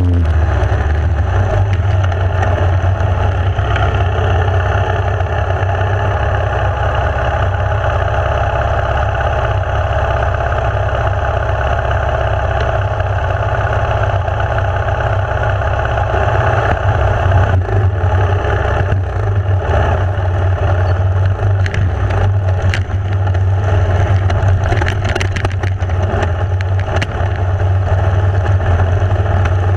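Enduro dirt bike engine running steadily under way, a constant low drone with a noisy rush over it; scattered knocks and rattles come in over the second half.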